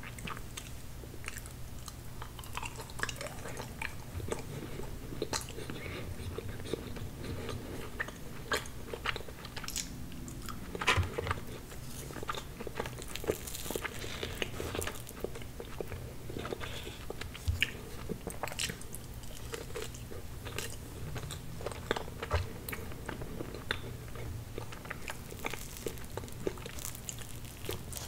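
Close-miked chewing and wet mouth sounds from eating chocolate tiramisu cake, with crunchy bites and many small, irregular clicks and crackles.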